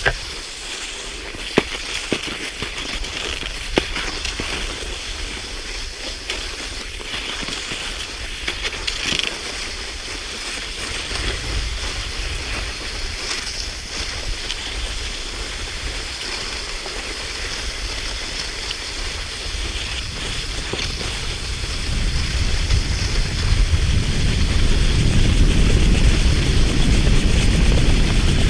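Cross-country skis hissing along a snow track, with a few sharp clicks of pole plants early on. A low rumble builds from about two-thirds of the way in and grows louder toward the end.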